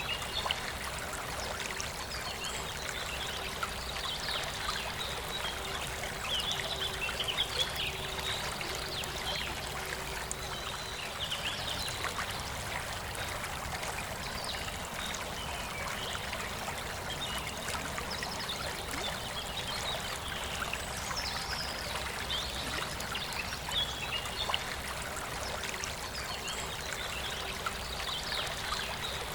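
Forest river flowing, a steady rush and trickle of water, with small birds chirping here and there throughout.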